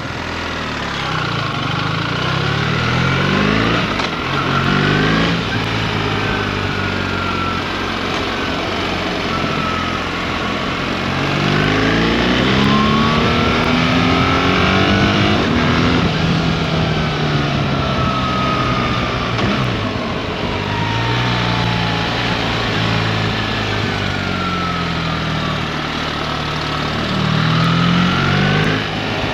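BMW R 1300 GS boxer-twin engine pulling hard through the gears: the revs climb and drop back at each upshift, several times over, with wind rushing past.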